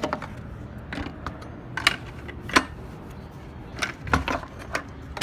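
Scattered sharp metallic clicks and clinks, about eight in all at irregular intervals, from metal engine parts being handled.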